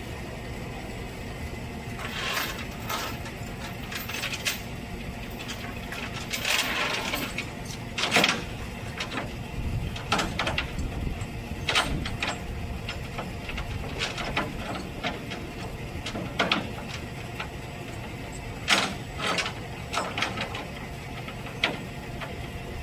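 A truck engine running steadily, with scattered sharp metallic clicks and clanks over it, about a dozen through the stretch.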